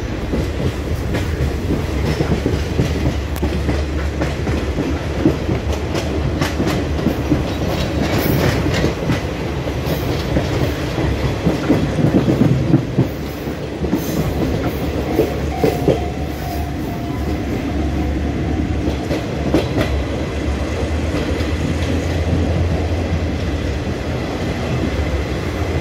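Inside a blue passenger carriage of a diesel-hauled train running with its windows open: a steady low rumble of the moving train, with wheels clicking over the rails now and then.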